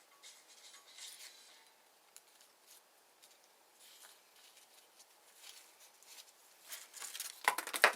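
Faint scattered taps and scrapes of small parts and tools being handled, then a louder cluster of sharp clicks and rattles near the end.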